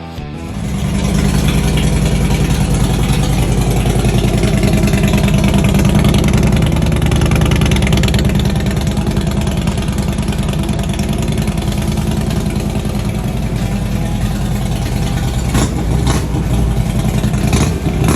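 Harley-Davidson Twin Cam 88 V-twin, freshly swapped into a 2006 Electra Glide Ultra Classic, running steadily at idle. A few sharp clicks come near the end.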